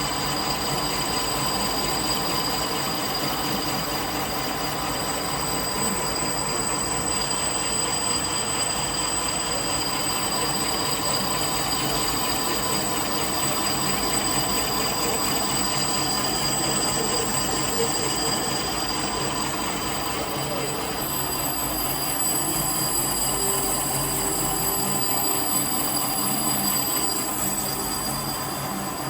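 A machine running steadily, with a continuous grinding noise and a constant high whine.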